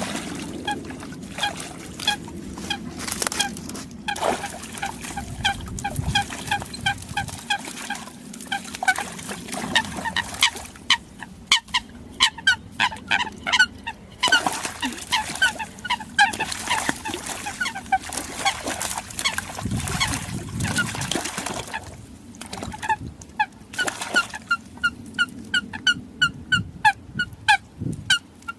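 Eurasian coots calling: runs of short, honking notes, several a second, broken by brief pauses.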